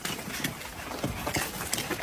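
Stray dogs eating, with irregular clicks and crunches of the food.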